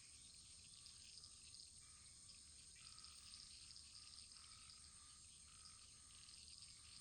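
Faint wood fire burning, with a steady soft hiss and fine, quick crackles throughout.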